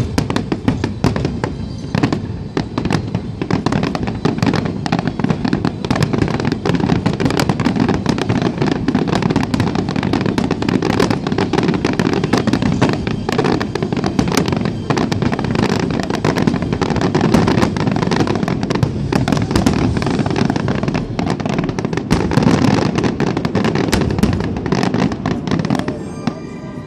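Dense fireworks barrage: many rapid, overlapping bangs and crackles that ease off near the end.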